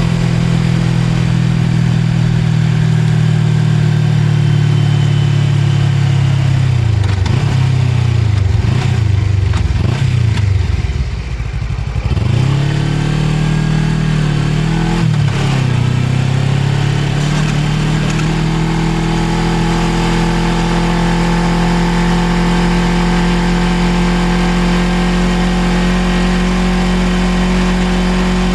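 Suzuki GSX250R's parallel-twin engine heard on the move. A quarter of the way in, the engine note dips and rises several times and falls lowest near the middle as the bike slows. It then climbs as the bike picks up speed and settles to a steady cruising note.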